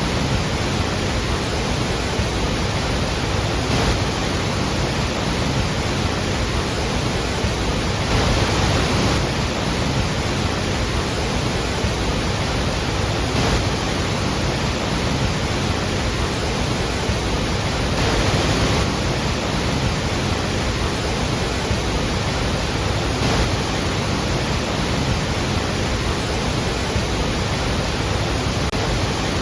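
Iguazu Falls' waterfalls rushing: a steady, dense sound of heavy falling water, swelling slightly every five seconds or so.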